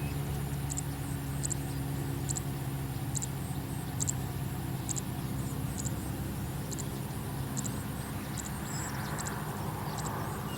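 A steady low engine hum, with short high-pitched ticks a little more than once a second over it.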